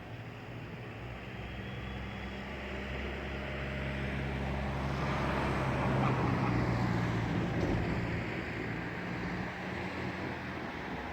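Motor vehicle engine running with a low hum, its sound swelling to a peak about halfway through and then easing off.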